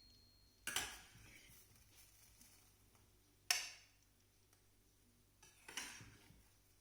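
Kitchen clatter: three sharp knocks of hard items being handled and set down, about a second in, in the middle and near the end, each with a short ring.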